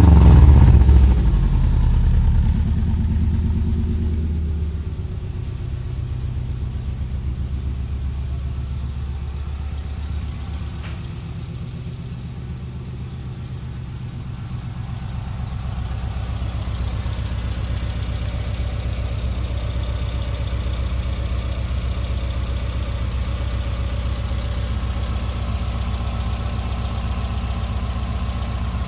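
Subaru Impreza's flat-four boxer engine with freshly fitted unequal-length headers, exhaust baffle in, running on its first start. The revs fall back over the first few seconds to a steady idle, which sags a little in the middle and rises slightly after that.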